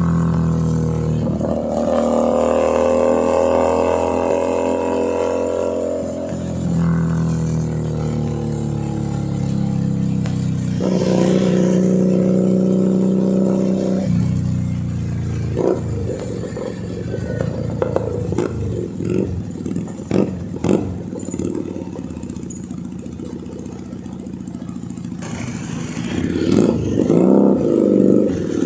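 Keeway SCR 250V motorcycle engine and exhaust under way. The engine pulls up through a gear with rising pitch, drops as it shifts about six seconds in, and pulls again. Midway it falls to low revs off the throttle with a few sharp pops from the exhaust, then revs up again near the end.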